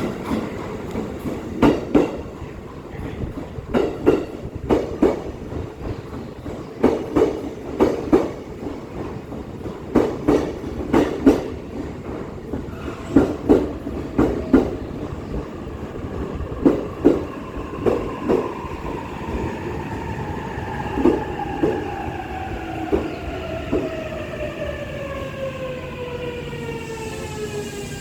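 Electric commuter train pulling into a station platform and slowing to a stop: its wheels clack over the rail joints in pairs that come further and further apart. From about the middle on, the traction motors' whine falls steadily in pitch as the train brakes.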